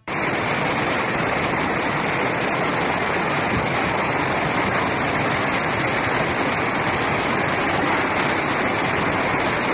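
Steady, dense rush of water from a torrential rainstorm and flooding, even and unbroken throughout.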